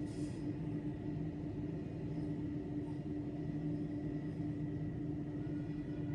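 Steady low mechanical rumble with a constant droning hum and a faint high tone above it: idling engines and machinery in a big railway station's ambience. A short hiss comes right at the start.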